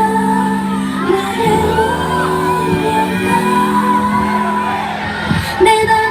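Live K-pop song with female vocals over loud backing music from the sound system, with shouts and whoops from the audience.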